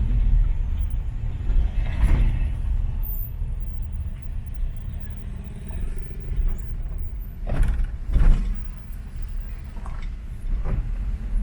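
A motor vehicle travelling, with a steady low rumble and a few louder knocks and jolts, the loudest a pair close together about three quarters of the way through.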